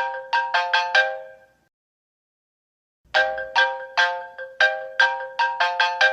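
Mobile phone ringtone: a short melody of quickly fading notes that ends about a second and a half in, then, after a gap of about a second and a half, starts over as the tone loops.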